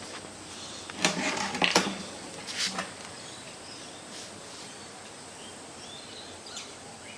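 Handling noises while refuelling a generator: a few short clunks and scrapes in the first three seconds, the loudest around one and two seconds in, then only faint background.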